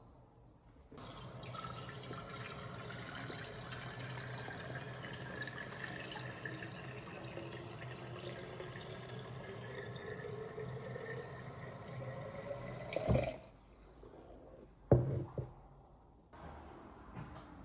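Water running from a tap into a container for about twelve seconds, the tone rising steadily as the container fills, then the tap shuts off abruptly. A couple of short knocks follow a moment later.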